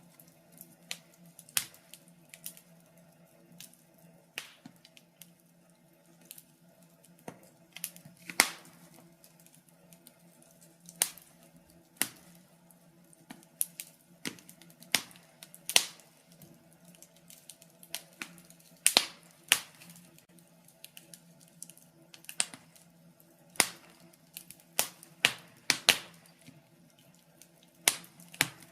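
Wood fire in a fireplace crackling: irregular sharp pops and snaps, a few every second or two and some much louder than others, over a faint, steady low hum.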